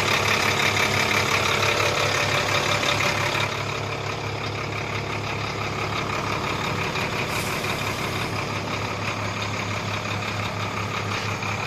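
Brand-new Sinotruk HOWO NX tractor head's 371-horsepower Euro 2 diesel engine idling steadily. It drops a little in loudness about three and a half seconds in.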